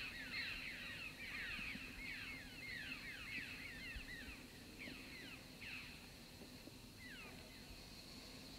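Birds calling: many short chirps, each sliding down in pitch, overlapping in quick succession, then thinning out after about six seconds.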